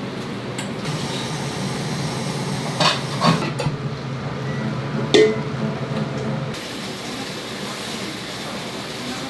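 Steady kitchen cooking noise with a low hum that stops about six and a half seconds in, broken by three sharp knocks or clinks of utensils a few seconds in.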